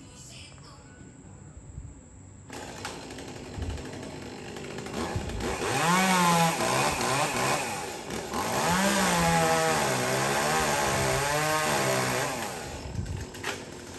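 Chainsaw engine running, coming in about two and a half seconds in, then revved hard with its pitch swinging up and down through most of the middle before easing off near the end.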